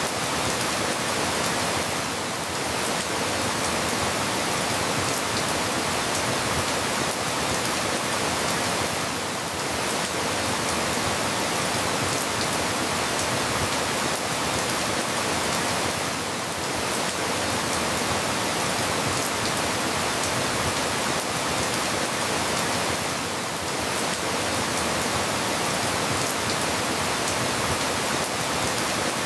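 Steady rain falling, an even hiss with no single drops or thunder standing out, dipping slightly in loudness about every seven seconds.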